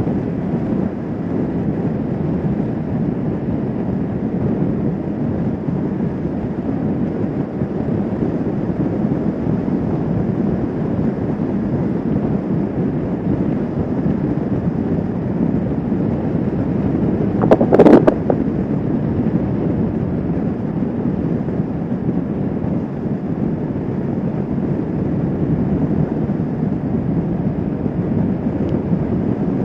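Kawasaki Vulcan S 650 motorcycle cruising, its parallel-twin engine running steadily under a constant rush of wind on the microphone. A brief, louder burst comes a little past halfway.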